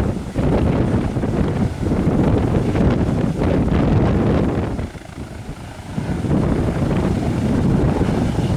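Strong wind buffeting the microphone in a loud, low rumble, easing briefly for about a second around the middle.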